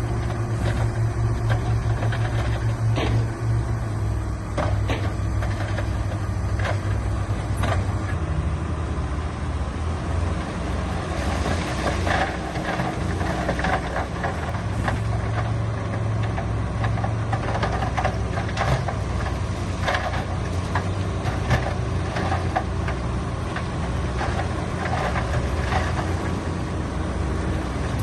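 Heavy diesel earthmoving machinery running steadily, with frequent short knocks and clanks throughout.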